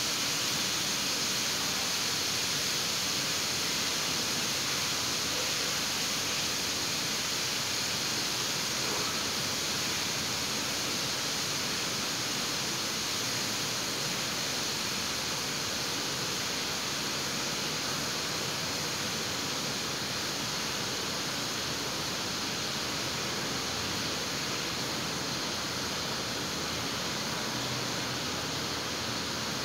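Heavy rain pouring down on open ground and puddles, a steady, dense hiss.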